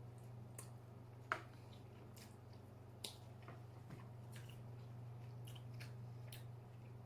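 Close-up eating sounds from a seafood boil: soft wet squishing and chewing with scattered small clicks, a sharper click about a second in and another about three seconds in, over a low steady hum.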